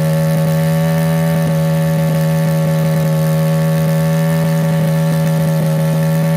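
1980 Honda CM200T Twinstar's small air-cooled parallel-twin engine held flat out at steady high revs while the rear dirt tire spins in a burnout. The pitch holds constant throughout, with no rise or fall.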